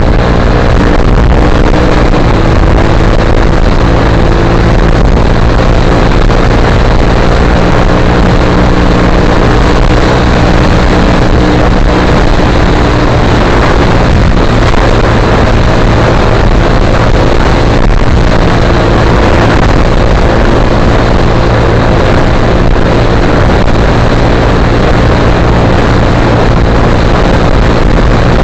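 Suzuki GSX-R150's single-cylinder four-stroke engine running loud and steady through an aftermarket Akrapovic-style full-carbon silencer.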